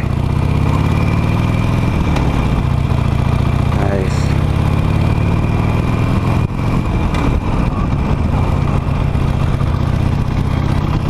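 Harley-Davidson Nightster's Revolution Max 975T V-twin running while riding, its pitch shifting in the first couple of seconds, with a brief drop in level about six and a half seconds in.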